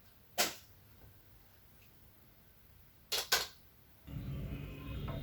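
Three sharp clicks in a quiet room: one about half a second in, then a quick pair about three seconds in. Background music comes in near the end.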